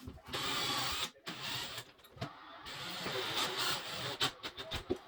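Power drill driving screws through a drywall patch into its backing clips, running in a few short spurts, with several sharp clicks near the end.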